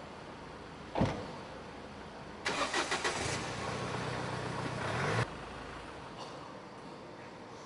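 A sharp thump about a second in, then a vehicle engine cranks with a few quick pulses, catches and runs for about two seconds before stopping suddenly.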